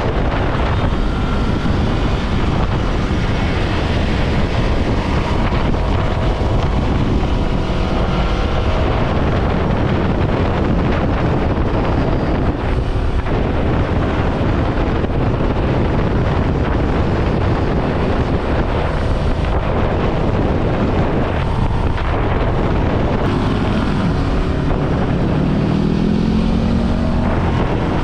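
Ducati Scrambler Sixty2's 399 cc air-cooled L-twin engine running at road speed under heavy wind noise on the microphone, its pitch rising near the end.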